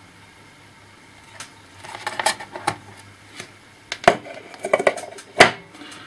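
Sharp metallic clinks and taps from laptop parts and small tools being handled during a teardown. They start after about a second and a half and come irregularly, with the loudest knocks near the end.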